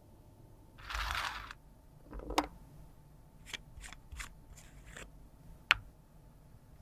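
Makeup being worked by hand: a short scraping rustle about a second in, then a series of light clicks and taps from small cosmetic cases and tools, the sharpest near the end.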